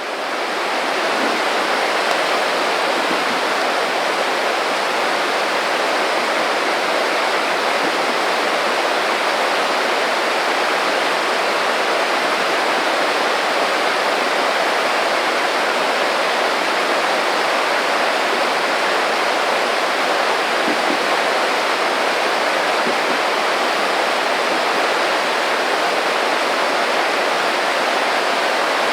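A small creek babbling steadily, its running water a constant even rush that fades in at the very start.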